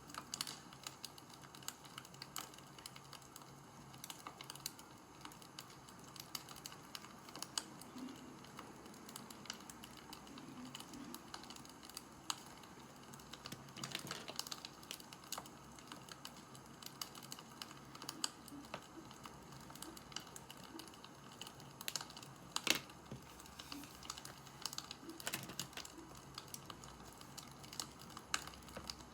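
Wood fire crackling: a steady run of small irregular pops and snaps, with one louder pop late on.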